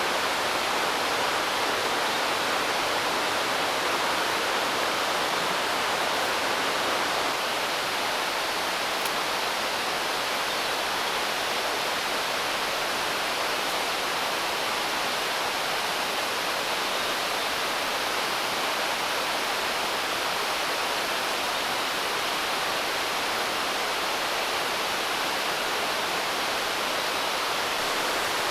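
Naena Falls, a large waterfall swollen with spring snowmelt, rushing in a steady, unbroken roar.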